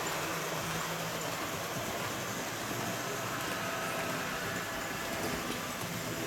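Model train running on the layout's track: a steady electric motor hum with wheel noise on the rails.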